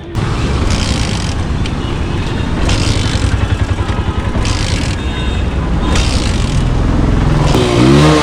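Motorcycle being kick-started, its engine running roughly, with revs rising and falling near the end.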